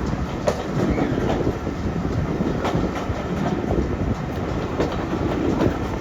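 Heritage railway train running along the track: a steady rumble with irregular sharp clicks of the wheels over rail joints.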